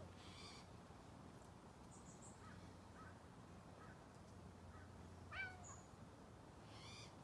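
Faint animal calls: several short bird calls and chirps scattered through, with a louder rising call about five seconds in and another near the end, over a low steady hum.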